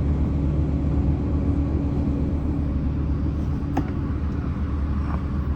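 Sightseeing cruise boat's engine running with a steady low drone, heard from on board, with one brief click partway through.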